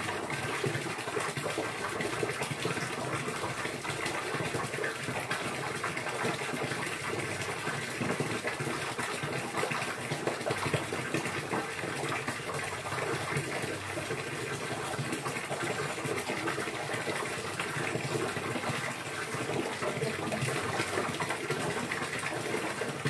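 Water running and splashing in a steady, unbroken gush.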